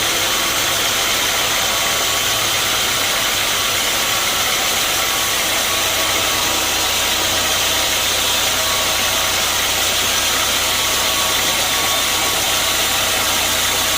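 Sawmill machinery running with a steady, loud engine-like drone and hiss, without clear changes.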